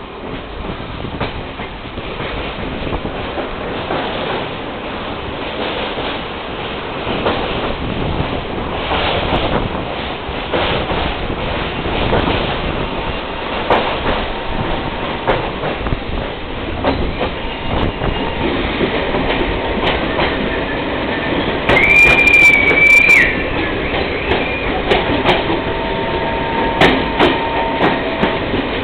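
Passenger train running on the rails, with a steady rumble and a run of clacks from the rail joints. About two-thirds of the way through comes one high wheel squeal lasting over a second, and near the end a fainter, lower squeal.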